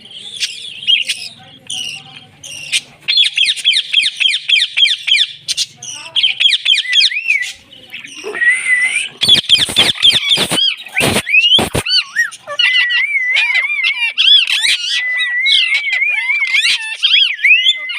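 A parrot calling throughout: rapid trains of chirps and squawks, then wavering whistled notes in the second half. A few sharp clicks sound between the calls about halfway through.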